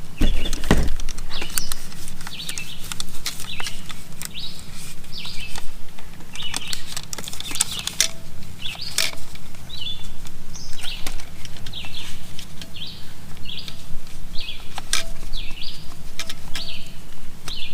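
Repeated short scratchy strokes, about one or two a second, as an RC truck's handheld transmitter is scrubbed clean of dust and grime, with occasional sharp clicks of plastic.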